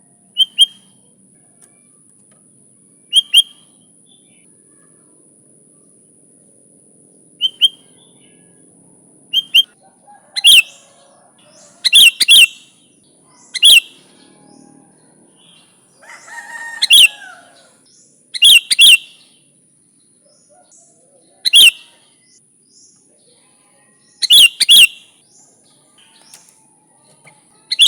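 Sooty-headed bulbul (kutilang) calling: short, sharp chirps, few and far apart at first, then coming in quick doubled bursts every second or two from about ten seconds in. A faint steady high-pitched tone lies underneath.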